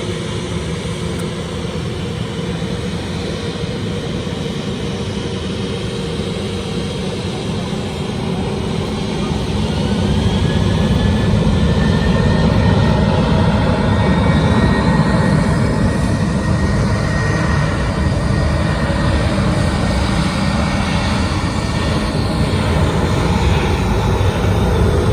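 Jet airliner engines, a steady rumble that grows louder about ten seconds in as the aircraft comes close, with an engine whine gliding up in pitch and later falling away.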